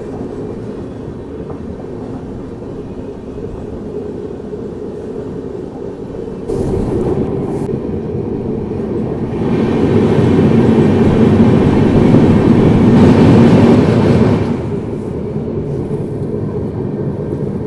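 Passenger express train coaches running along the track, heard from an open coach doorway: steady rumble of wheels on rail. It grows louder about six seconds in, is loudest for a few seconds around the middle, then eases off.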